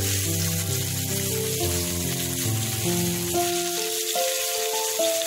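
Chicken breasts sizzling on a hot ridged grill pan, a steady hiss, under background music with slow held notes.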